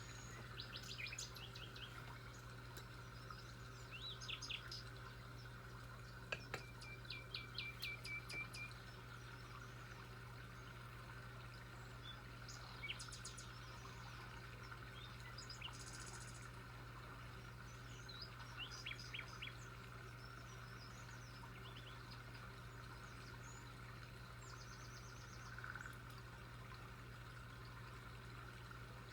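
Wild birds chirping in short, scattered calls, with one quick run of repeated notes about seven seconds in, over a faint steady background hum.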